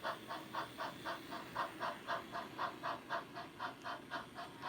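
Model steam locomotive's sound system chuffing at an even pace, about four chuffs a second.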